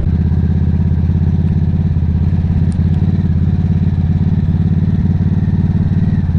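Harley-Davidson V-twin motorcycle engine running steadily at an even, low engine speed, recorded from the rider's seat.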